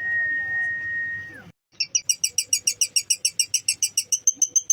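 A steady high whistle held for about a second and a half, falling off at the end. After a short break, a lovebird's rapid, long ngekek chatter follows, about nine sharp notes a second.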